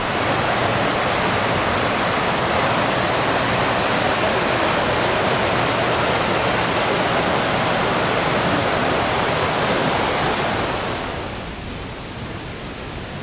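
Ladder Creek Falls, a waterfall, rushing steadily with a dense even roar of falling water, turning somewhat quieter about eleven seconds in.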